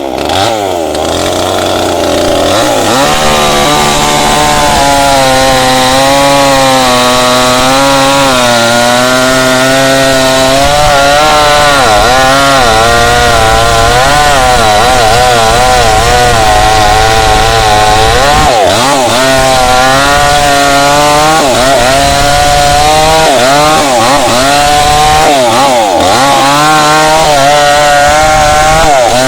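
Tanika MS 5800 two-stroke chainsaw revving up about two seconds in, then running at high revs while cutting through a candlenut tree's wood. The engine pitch sags and recovers over and over as the chain bites.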